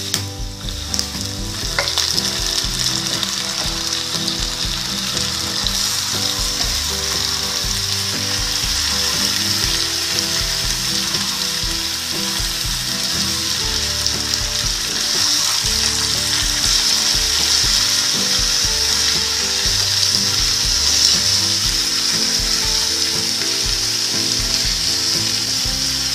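Boiled raw jackfruit pieces and potatoes frying in mustard oil in a wok, sizzling steadily as they are stirred with a spatula.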